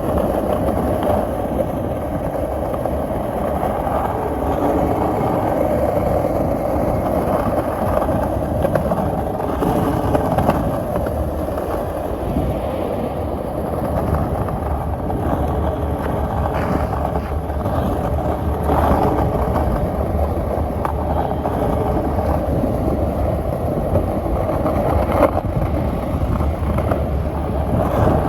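Skateboard wheels rolling steadily over pavement, a continuous dense rumble with small bumps in it.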